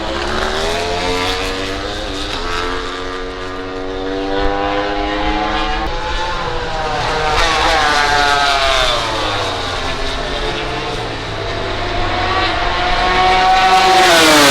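MotoGP race bikes' 1000 cc four-cylinder engines running hard around the circuit, their pitch rising and falling as they rev through the gears. One bike passes close near the end, the loudest moment, its pitch dropping sharply as it goes by.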